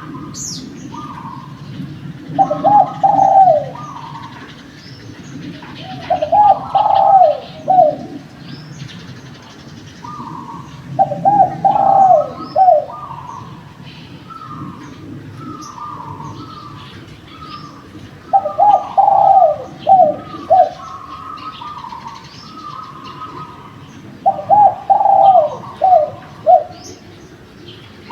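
Derkuku dove cooing: five loud phrases of a few quick falling coos each, repeating every five to six seconds, with softer higher coos in between. Faint chirps of small birds and a low steady rumble lie underneath.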